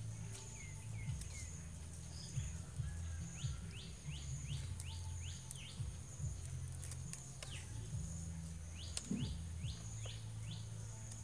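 A bird calling in runs of quick downward-sliding chirps, five or six in a row, twice. Scissors snipping through fried tarantula legs give a few sharp clicks, over a steady low rumble and a faint high pulsing tone.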